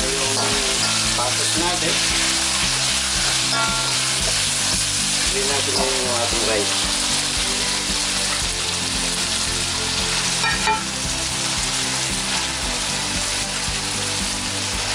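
Diced chicken and shrimp sizzling steadily in hot oil in a wok while being stirred with a spatula, with a short ringing clink about two-thirds of the way through.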